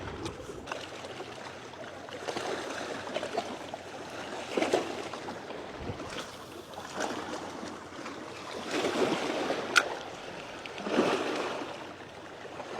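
Waves washing in, a fresh wash every two seconds or so, with a single sharp click shortly before the end.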